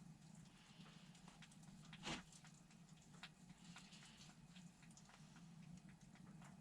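Near silence with faint, irregular ticks and clicks, one louder click about two seconds in, over a steady low hum.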